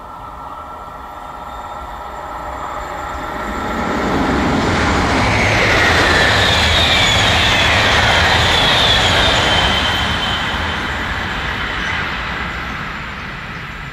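A train approaching through a railway tunnel: rumble and rail noise that swell steadily to their loudest around the middle, with a faint high whine sliding slightly down in pitch, then ease off a little near the end as the train nears the tunnel mouth.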